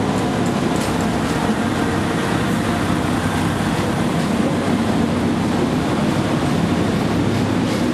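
Diesel passenger train pulling into the platform and passing close by, a steady rumble of engine and wheels.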